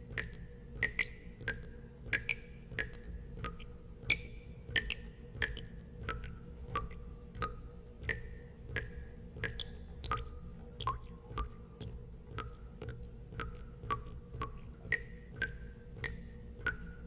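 Water drops falling one after another into water, each a short plink with a brief pitched ring, roughly two a second at an uneven pace, over a steady low hum.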